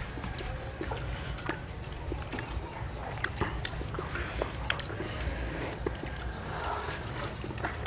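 Close-up eating sounds from people chewing and biting into boiled chicken: many small wet clicks and smacks, with a brief hiss a little past the middle, over a low steady rumble.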